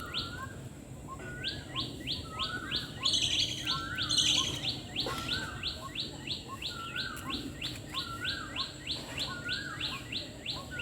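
White-breasted waterhen (dahuk) calling over and over: a rapid run of short, down-slurred high notes, about three a second, with a lower hooked note roughly once a second, broken off briefly about a second in.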